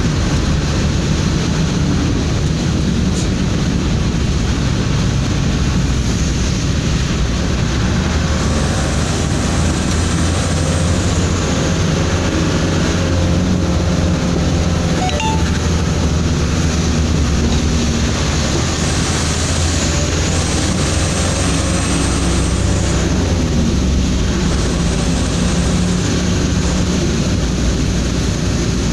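Steady engine drone and road noise inside a cargo truck's cab while driving at speed on a highway.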